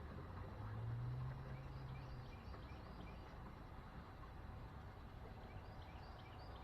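Birds calling faintly with short repeated chirps, over a low steady hum that fades out about two seconds in.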